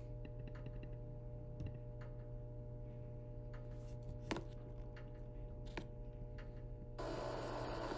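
Steady hum of running HVAC equipment with a few scattered light clicks. About seven seconds in, an even rush of air starts and the sound gets louder as the air-conditioning blower comes on in cooling mode.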